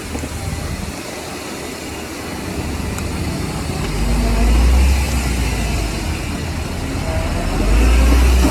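Heavy earthmoving machine's diesel engine running, with a deep rumble that swells twice, about four seconds in and again near the end.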